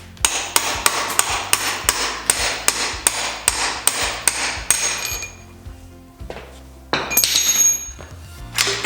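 Hammer blows on a metal part of a dirt bike, about three a second for some five seconds, each strike with a short metallic ring. After a pause comes a ringing metallic scrape, then one more heavy blow near the end.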